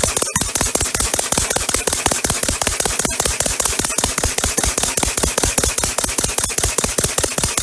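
Homemade compressed-air eccentric-drive engine running, its cylinders exhausting in rapid, evenly spaced puffs of air at a steady speed.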